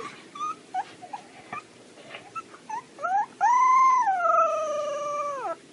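Dog whining: several short, faint whimpers, then about three and a half seconds in one long whine of about two seconds that slowly falls in pitch, like the start of a howl.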